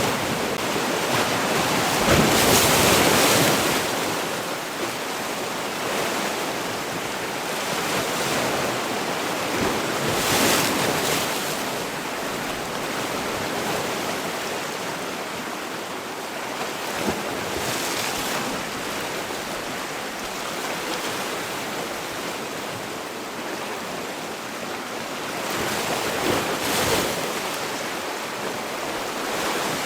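Sea waves washing ashore in a steady hiss of surf, swelling louder as individual waves break, about three times.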